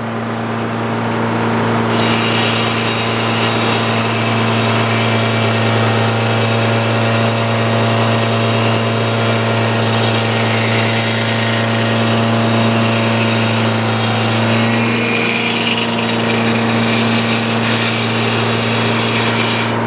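Portable sawmill's engine running steadily at speed, with the blade cutting through a log from about two seconds in until it comes out of the cut near fifteen seconds.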